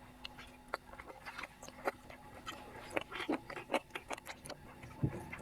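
Close-miked eating sounds: irregular wet smacks and clicks of chewing and mouth noises.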